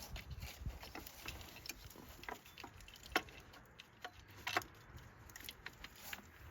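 Irregular light metallic clicks and clinks of hand tools and fasteners working on a coil pack, with a few sharper clicks about three and four and a half seconds in.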